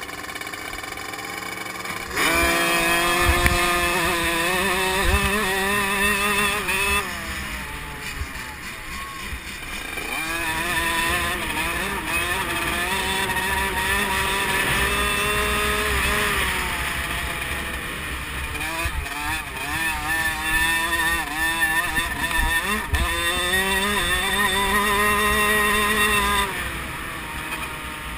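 50cc two-stroke youth motocross bikes racing, their high-pitched engines rising and falling in pitch as the riders work the throttle and shift. The engine sound jumps louder about two seconds in and drops back near the end.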